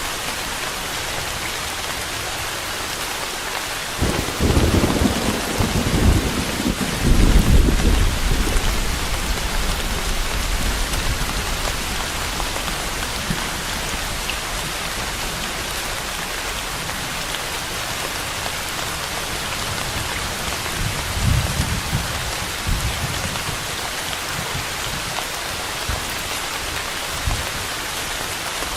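Steady rain falling, a constant even hiss. About four seconds in, a deep thunder rumble breaks in and rolls for several seconds before fading. A fainter rumble comes about two-thirds of the way through.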